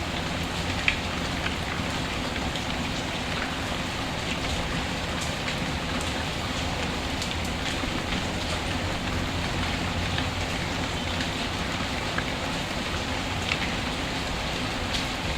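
Steady rain falling, with a few sharp pops from a crackling wood fire; the loudest pop comes about a second in.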